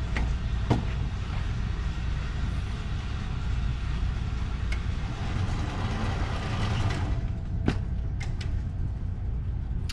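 Shooting-range target carrier motor running the paper target back to the firing line, a steady mechanical running noise over a low rumble, easing off about seven seconds in. A few sharp clicks sound along the way.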